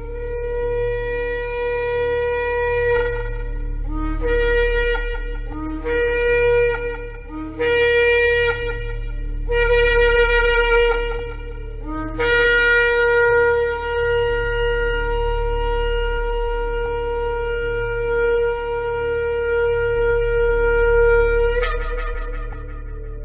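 Shofar (ram's-horn trumpet) blown: one held blast, then four shorter blasts, then a long blast of about nine seconds that breaks upward at its end. A steady low hum runs underneath.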